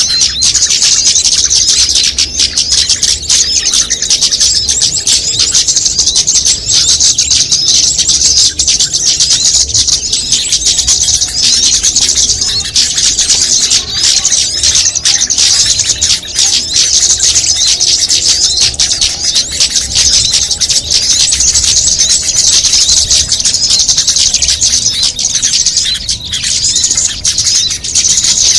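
A dense, continuous chatter of many small songbirds calling over one another, rapid high chirps with no pause, as in a mixed-species bird-lure recording used to draw small birds in.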